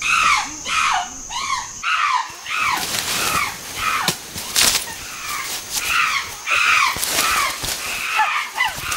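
Chimpanzees screaming and calling: a long run of rising-and-falling cries, two or three a second.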